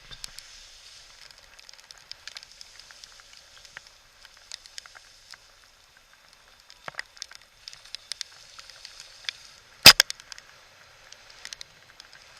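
Heavy rain: a steady hiss, with raindrops ticking and crackling irregularly on the camera housing, and one loud sharp knock about ten seconds in.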